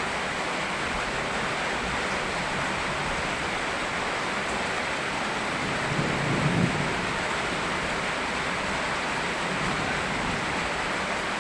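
Steady rain mixed with flowing river water, an even rushing hiss. A brief low rumble rises over it a little past the middle.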